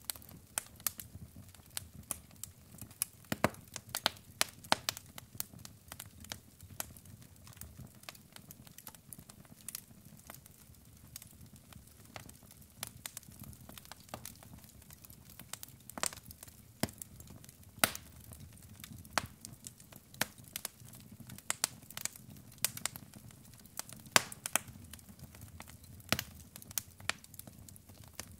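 Wood fire crackling: burning logs giving irregular sharp pops and snaps over a low, steady rumble of flame.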